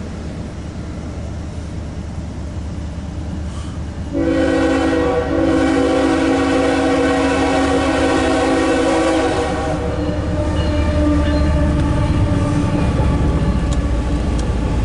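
CSX freight locomotive sounding its air horn as the train approaches: a short blast about four seconds in, then a long chord held about four and a half seconds. After the horn the low rumble of the diesel locomotives and train grows steadily louder.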